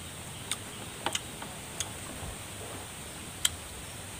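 Mouth clicks and smacks of someone chewing raw green lime slices: about six short, sharp ticks at irregular intervals, the loudest about three and a half seconds in, over a faint steady hiss.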